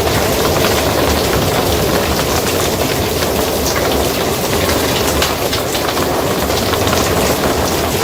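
Steady rain falling on a barn roof: a dense, even patter of drops over a constant low rumble.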